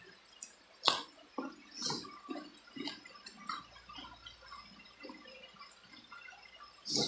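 Close-miked eating of spicy chicken feet: irregular wet chewing, smacking and sucking sounds, with a sharp click about a second in and a louder burst near the end.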